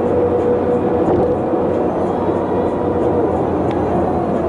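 Steady road and engine noise from a moving vehicle, with a held whine that stops about three seconds in.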